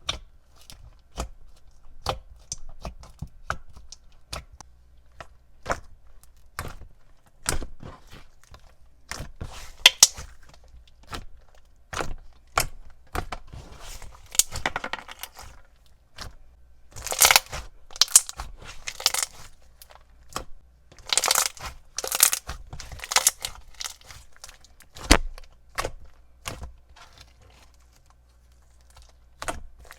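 Thick, glossy floam slime with foam beads being squished and pressed by hand, giving a long run of sharp clicks, crackles and bubble pops, thicker in clusters in the middle and later part.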